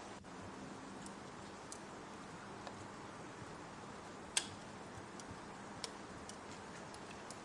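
Steady hiss of rain with a wood fire crackling over it: scattered sharp pops, the loudest about four seconds in and another a little over a second later.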